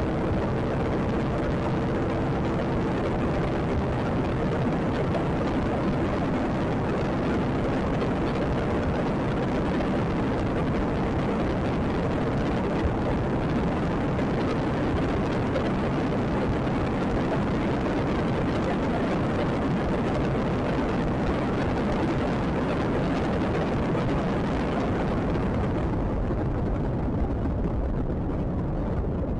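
Wind rushing over the microphone of a Yamaha XMAX scooter under way, with the scooter's engine drone faintly underneath. The engine hum fades out about ten seconds in, and the high hiss softens near the end.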